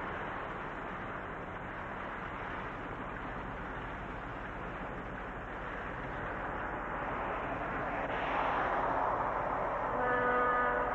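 DX-class diesel-hauled freight train running past with a rushing noise that swells about eight seconds in, then a locomotive horn sounding briefly near the end.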